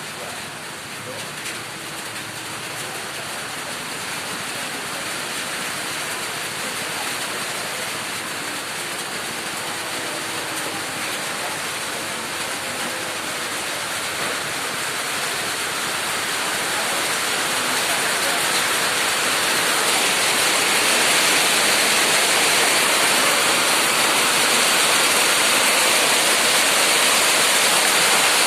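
Heavy rain pouring down in a steady hiss, growing louder through the second half as the downpour intensifies.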